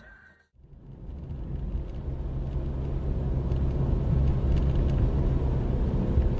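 Low, steady rumble of a car driving, road and engine noise as picked up by a dashcam. It comes in after a brief silence about half a second in and builds to a steady level.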